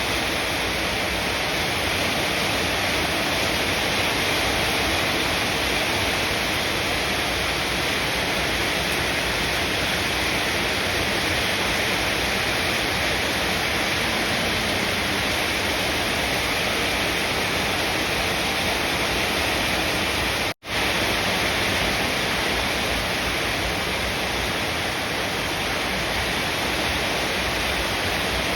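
Steady, even hiss of heavy rain falling, with no let-up. It cuts out for an instant about two-thirds of the way through and comes back unchanged.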